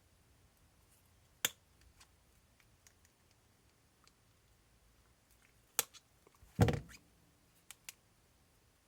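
Scattered sharp clicks of hand tools and small RC shock parts being handled on a workbench, with one heavier knock about two-thirds of the way in.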